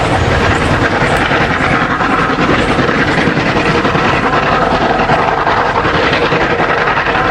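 Märklin model steam locomotives running a long goods train, their sound decoders giving a steady fast steam chuff over the rolling noise of the wagons' wheels on the track.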